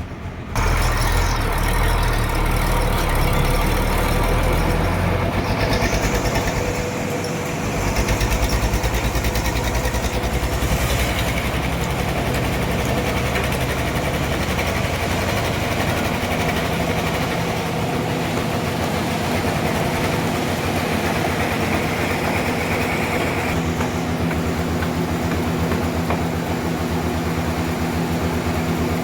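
Engine-driven sawmill machinery running steadily, a loud mechanical drone that starts abruptly about half a second in.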